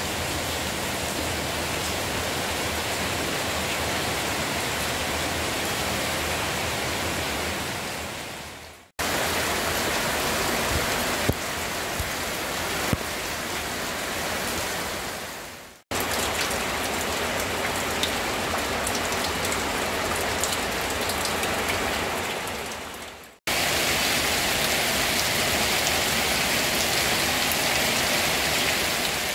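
Heavy rain falling on leafy plants and waterlogged ground, a steady hiss with a few sharper drop ticks. It fades out and cuts back in three times.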